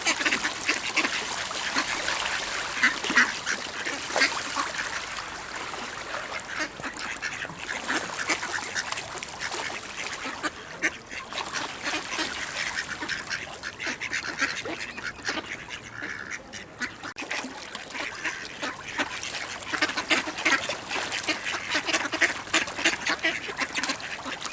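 A flock of ducks quacking and chattering continuously as they crowd in to be fed.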